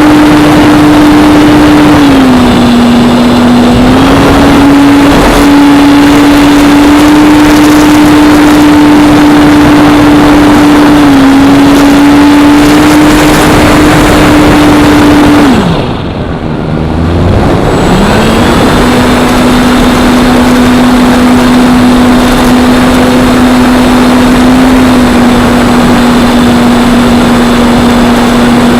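Electric motor and Extra 300 propeller of a Parkzone P-47 RC plane running at a steady high whine over a rushing hiss of air, with small steps in pitch as the throttle changes. About halfway through the throttle is cut: the whine drops away for about two seconds, then spools back up to a slightly lower steady pitch.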